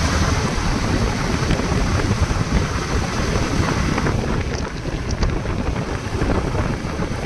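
Wind buffeting the microphone: a steady, rushing rumble.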